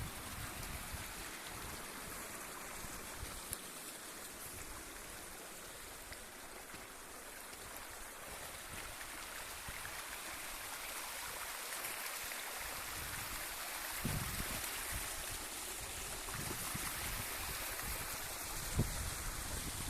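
Small brook babbling and gurgling steadily over stones. A few short low bumps come near the end.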